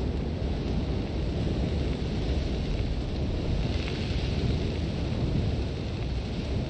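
Sandstorm wind blowing steadily with a deep rumble and a hiss of blowing sand; the hiss swells briefly in the middle.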